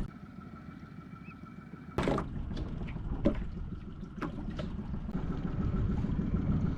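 Sounds aboard a small skiff at sea: a steady low rumble with water sounds, broken by several sharp knocks, the loudest about two seconds in, and a faint steady high tone throughout.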